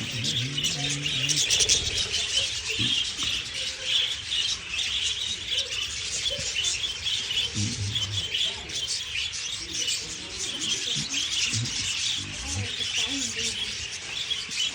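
A flock of budgerigars chattering and chirping continuously, many birds calling over one another in a dense twittering.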